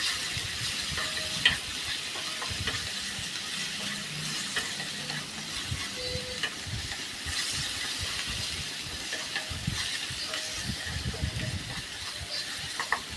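Onion and ginger-garlic paste with green chili paste frying in oil in a pan: a steady sizzle, with a spoon stirring and scraping the pan now and then.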